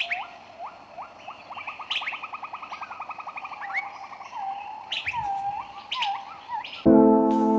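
Birds calling: short rising whistled notes and a fast trill of rapidly repeated notes, with higher chirps over them. Music starts suddenly near the end.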